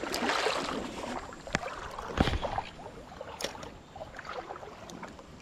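Creek water sloshing and splashing, with a few sharp clicks and knocks from handling fishing tackle; the loudest knock comes about two seconds in.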